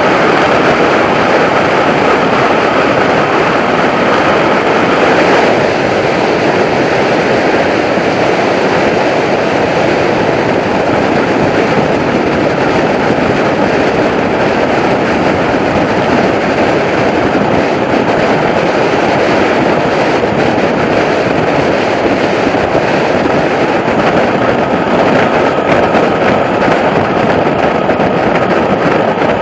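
Strong wind rushing over the microphone of a camera riding along on a road bike, a loud, steady rush of noise with no let-up.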